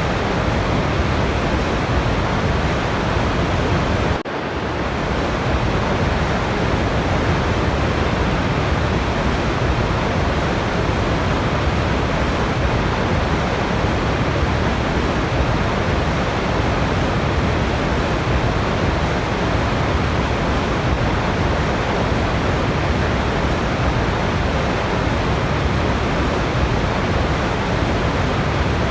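Waterfall rushing: a dense, steady wash of falling water with no rhythm, which dips sharply about four seconds in and swells back within a second.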